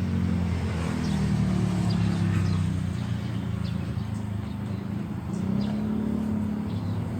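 Engine running steadily with a low hum, its pitch drifting slightly up and down.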